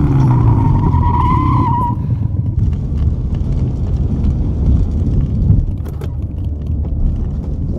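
Film chase sound effects: tyres squealing with a wavering pitch for about two seconds, over a heavy vehicle's low engine rumble that carries on afterwards.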